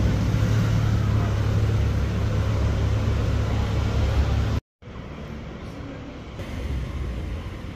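Lamborghini Urus's twin-turbo V8 running at low speed as the SUV drives slowly away, a deep, steady rumble growing a little fainter. About four and a half seconds in it cuts off abruptly to quieter street traffic noise.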